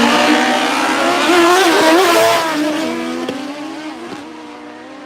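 Drag motorcycle engine running at high revs, its pitch wavering, loud at first and then fading steadily over the last half as it moves away.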